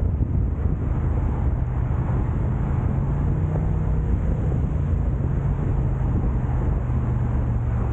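Car driving along, heard from the car: a steady low rumble of engine and road noise with a constant low hum.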